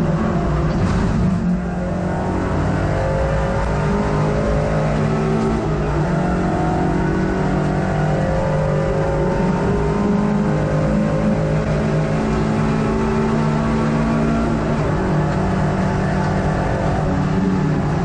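Hot hatch race car's engine running hard, heard from inside the cabin, its pitch rising and falling slowly with throttle and gear changes through the lap.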